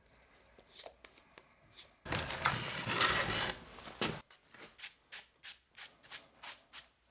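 Hand scraping and rubbing on a turbo-flange gasket: a few faint ticks, then a loud scrape lasting about two seconds, then a run of about nine short even rubbing strokes, roughly three a second.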